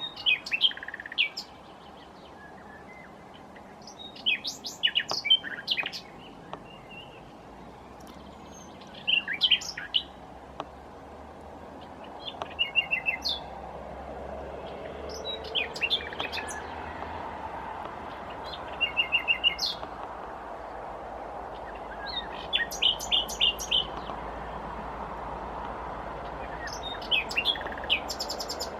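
Common nightingale singing: about eight short phrases a few seconds apart, each made of fast repeated notes and trills, over a steady background hiss.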